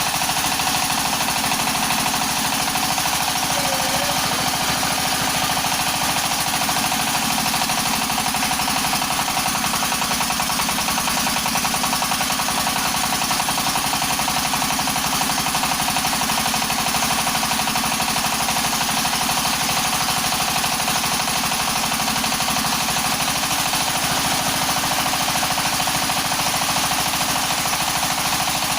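Floating fish-feed pellet machine running with a steady, fast mechanical clatter.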